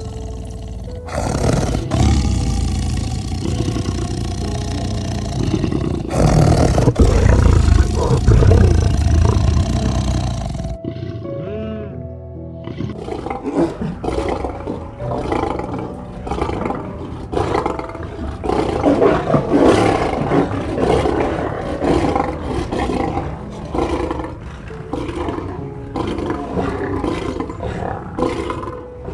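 Lions growling and roaring over soft background music, loudest around six to ten seconds in. After a brief drop about eleven seconds in comes a quicker run of shorter, repeated growls.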